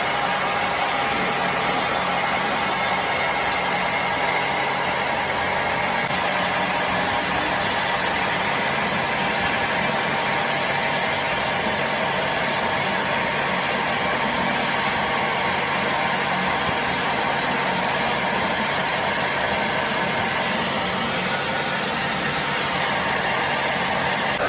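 A machine running steadily: a dense, even mechanical noise with several steady tones that does not change.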